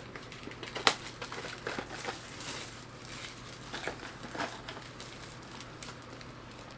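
A sealed trading-card box being unwrapped and handled: irregular crinkling with scattered sharp clicks, the loudest about a second in.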